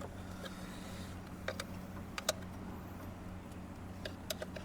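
Light clicks and taps of a hand tool prying at a Hyundai Elantra ECU's metal case, which is glued shut with Anabond sealant: three quick pairs of clicks over a steady low hum.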